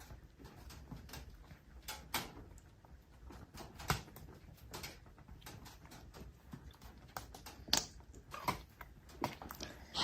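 Irregular light clicks and knocks of small household objects being handled, with one sharper knock about four seconds in and a quicker run of clicks near the end.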